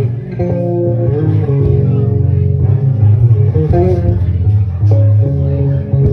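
Live instrumental music on looped electric bass guitar: a low bass line with higher melodic bass parts layered over it.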